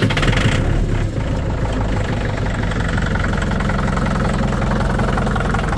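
Tractor engine catching on a cold start and settling into a steady idle. It is cold and slow to warm up, its hydraulic fluid still cold.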